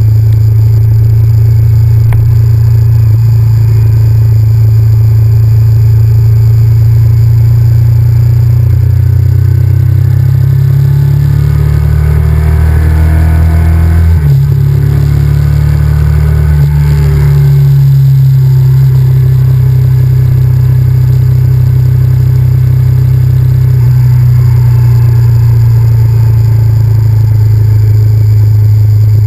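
Honda VTR1000F's V-twin engine running under way, loud and steady, its note rising and then dropping sharply a few times around the middle as it revs and shifts.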